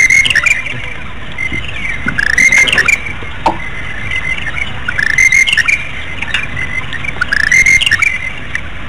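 A bird calling in short phrases of several quick rising and falling notes, repeated four times about every two and a half seconds, over a steady low rumble of background noise.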